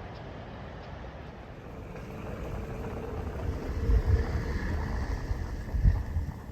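Outdoor background noise: a low rumble and hiss that grows louder through the second half, with two low thumps like wind buffeting the microphone.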